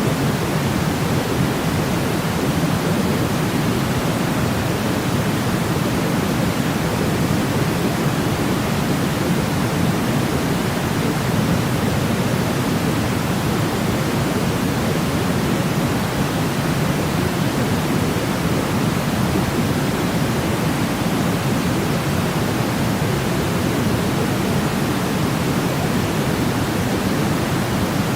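Steady synthetic white noise for sleep, even and unchanging, with most of its weight in the low end like pink noise.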